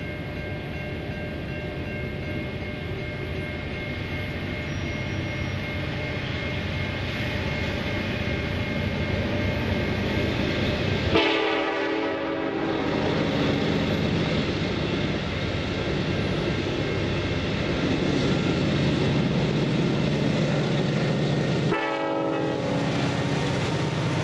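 Diesel freight train led by an EMD SD70M-2 and a GE C40-8M locomotive, its engines running with a low drone that grows louder as it approaches. The locomotive air horn sounds about halfway through and again near the end.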